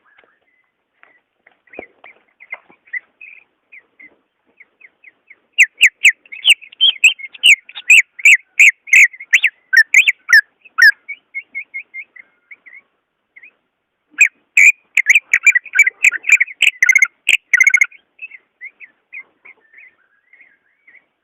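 Cucak ijo (green leafbird) singing: soft scattered chirps break into two loud runs of rapid, ringing whistled notes, one starting about five seconds in and the other about fourteen seconds in. Quieter chirping follows each run.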